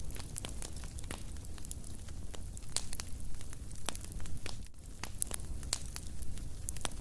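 Wood fire crackling in a fireplace: irregular sharp pops and snaps, many of them close together, over a steady low rumble of the flames.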